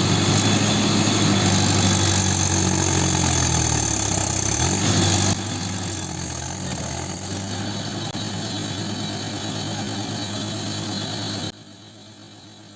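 Tractor diesel engine running steadily, its pitch dipping and recovering briefly about four seconds in. The sound drops abruptly in level about five seconds in and again near the end.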